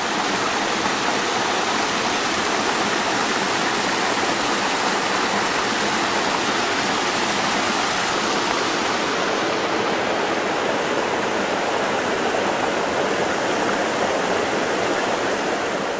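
Steady rush of water from a clear mountain creek, an even, unbroken hiss.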